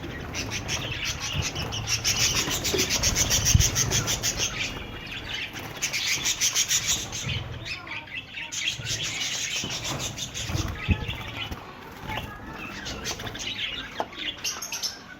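Budgerigars chattering, with runs of rapid high chirps that break off now and then for a moment.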